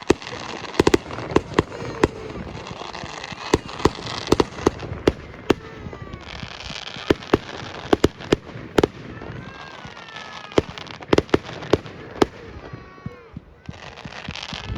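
Fireworks display: an irregular barrage of sharp bangs, often several a second, over a continuous crackling hiss.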